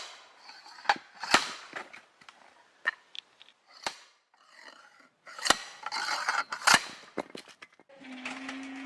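Manual slide-hammer log splitter being raised and driven down onto a log: a series of sharp, irregularly spaced strikes, with scraping and rubbing between them. A steady hum starts near the end.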